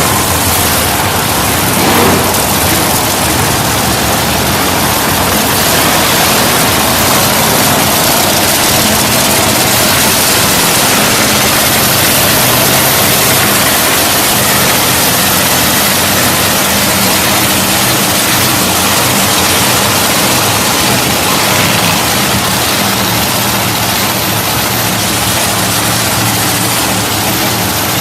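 Monster truck engine running loud and steady, with no sharp revs or impacts standing out.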